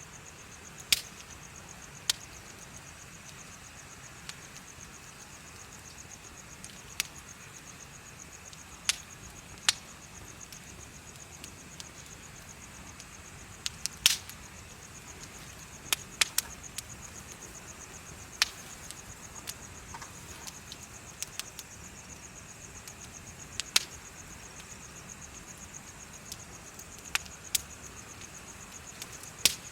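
Wood bonfire crackling, with sharp pops at irregular intervals, sometimes two or three in quick succession. Under it runs a steady, high, rapidly pulsing trill of chirping insects.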